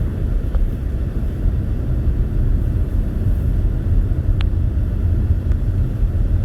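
Steady low rumble of a car driving, engine and tyre noise heard from inside the cabin, with a faint click about four and a half seconds in.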